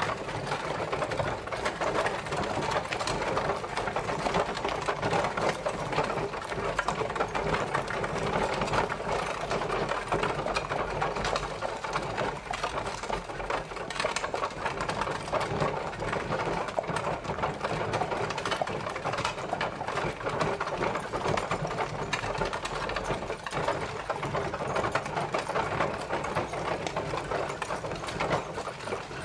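Horse-drawn carriage on the move: a continuous dense rattle and clatter of its wheels and body, steady in level throughout.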